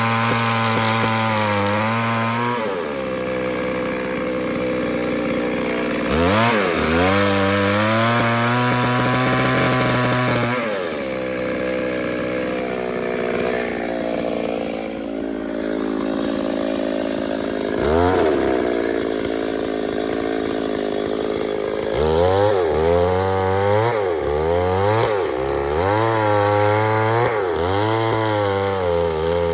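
Two-stroke chainsaw cutting through a log. Its engine pitch sags under load and climbs back as the cut eases. Near the end the saw revs up and down about once a second.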